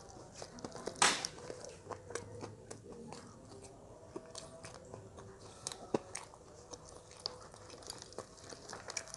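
Biting and chewing crisp fried duck at close range, with the skin and bones crunching and crackling in short irregular bursts; one louder crunch comes about a second in.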